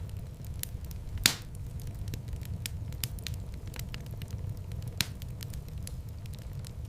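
Wood fire crackling in a fireplace: scattered sharp snaps over a steady low rumble of the flames. A louder pop comes about a second in and another about five seconds in.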